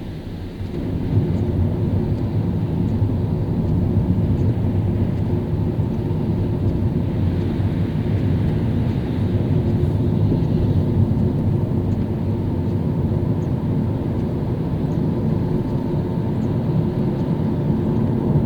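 A car driving on a wet road: a steady low rumble of engine and tyres that swells about a second in and drops back right at the end.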